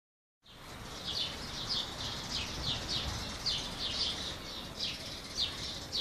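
Birds singing in the morning: a busy, steady string of short, high, falling chirps, several a second, over a low background rumble.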